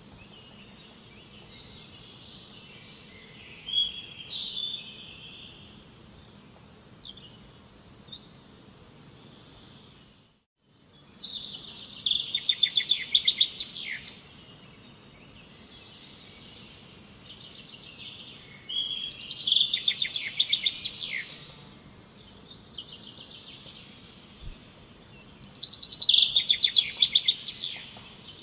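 A songbird repeating a short, fast trilled phrase: faint at first, then three loud songs about seven seconds apart, over a steady low background noise.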